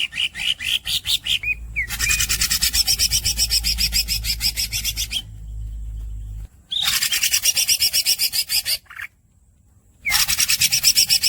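Green leafbird (cucak ijo) singing: a run of quick rising chirps, then long, dense, raspy rolls of rapidly repeated high notes, three of them, separated by short pauses.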